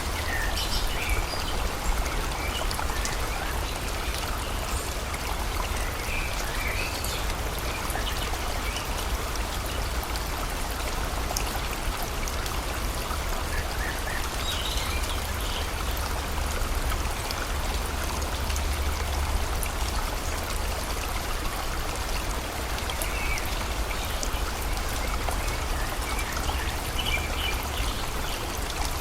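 Steady rain and a flowing river, an even rush of water with a deep low rumble under it. A few short, faint bird calls come through now and then.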